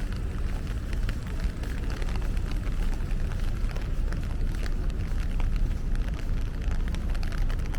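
Rainy city street: a steady low rumble with a scattered patter of raindrops ticking throughout.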